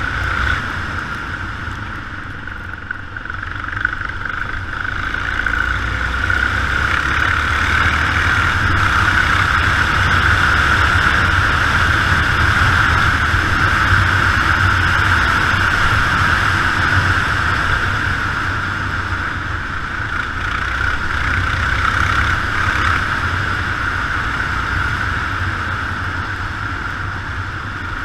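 Yamaha XT 600 single-cylinder motorcycle engine running on the move, mixed with steady wind noise; the level swells through the middle and eases off later.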